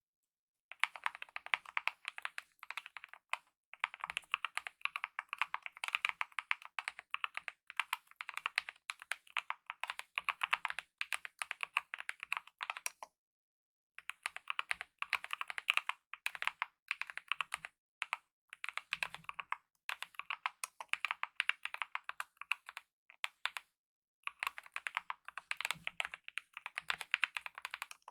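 Steady typing on a Kemove mechanical keyboard with lubed optical red linear switches and DSA-profile keycaps: rapid runs of keystrokes in bursts of a few seconds, broken by short pauses and one silent gap of about a second near the middle.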